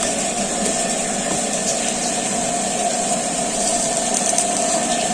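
Homemade vacuum cleaner's DC fan motor running steadily: a constant hum with a high rushing hiss of moving air.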